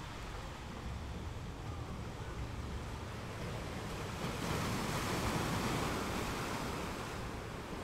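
Rough-sea ambience: waves surging with wind in a steady rush, swelling louder about four seconds in, then easing back.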